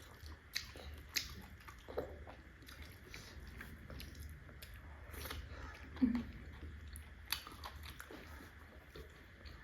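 Close-up eating sounds: biting into and chewing steamed buff (water-buffalo) momos, with scattered short mouth clicks and smacks.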